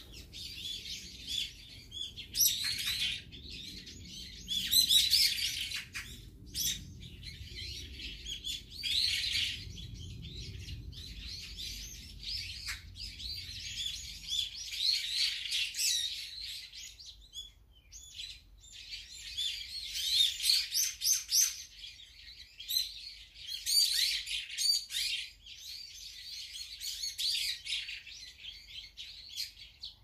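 Several wild birds chirping and calling, many short high calls overlapping in quick clusters with only brief pauses.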